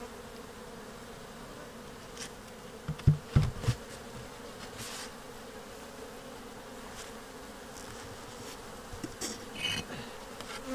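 Honeybees buzzing in a steady hum around an open hive, with a cluster of loud knocks about three seconds in and a few lighter ones near the end.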